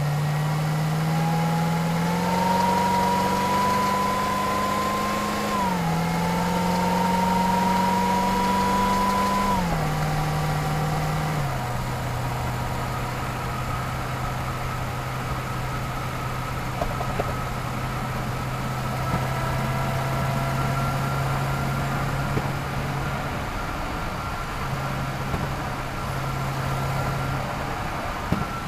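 Chevrolet Camaro ZL1's supercharged V8 accelerating, with the high blower whine rising in pitch alongside the engine. The automatic gearbox upshifts twice, dropping the pitch each time, about five and nine seconds in. Near the middle it settles to a steady, low cruise with a faint whine.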